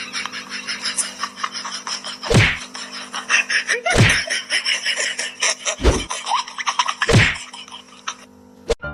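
Four heavy thumps, about one and a half seconds apart, over a dense crackle and a steady hum, with a sharp click near the end.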